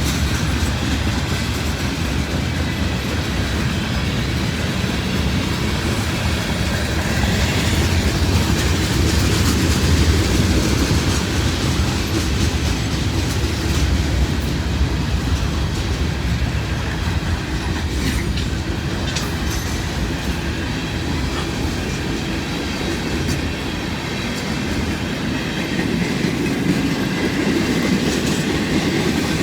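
Long freight train's cars rolling steadily past, a continuous rumble with the wheels clacking over the rail joints.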